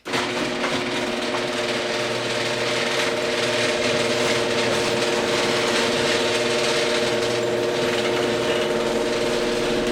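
Old Genie screw-drive garage door opener running: a steady motor hum under a dense mechanical rattle of the screw drive and carriage, starting abruptly and cutting off near the end. The noise is the kind the owner blames on a worn carriage gear or a worn section of the screw rail.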